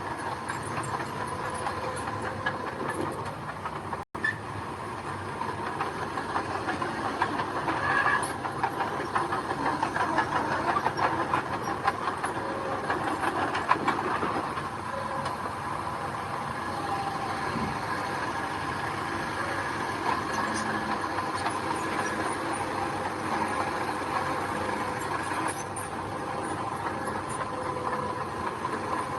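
Bulldozer's diesel engine running steadily under a continuous rattling clatter of metal, with a brief break about four seconds in.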